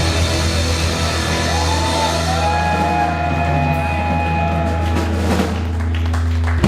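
Live rock band with distorted guitars, bass and drums holding a loud sustained chord over a steady low bass note. A sharp final hit cuts it off near the end.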